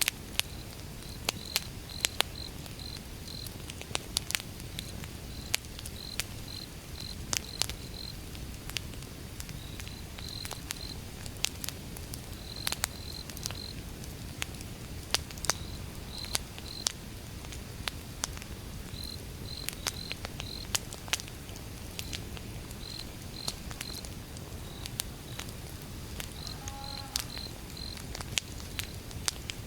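Wood fire burning with a low rumble and sharp, irregular crackles and pops, some much louder than the rest. A cricket keeps chirping in short groups of two to four high chirps.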